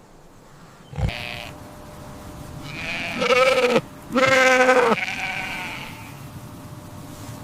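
Sheep bleating twice in quick succession: two wavering calls a little under a second each, the second slightly longer.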